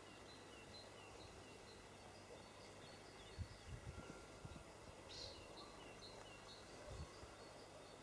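Near silence with faint birdsong: short high chirps repeating steadily. A few soft low thumps come around the middle and again near the end.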